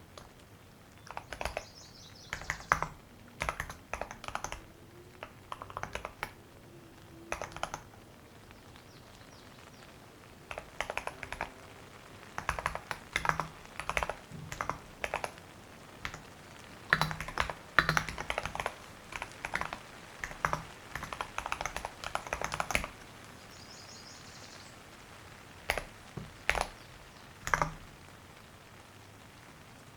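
Typing on a computer keyboard: bursts of rapid key clicks separated by pauses of a couple of seconds.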